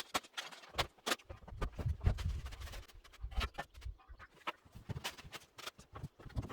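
Irregular wooden knocks and clunks of split oak firewood logs being handled and stacked, with a low rumble about two seconds in.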